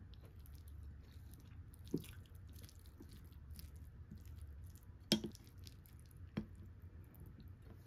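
Close-up chewing of a chicken-mayo rice bowl with crispy fried chicken, soft crackly mouth sounds throughout. A wooden spoon knocks on the plate three times, the loudest about five seconds in.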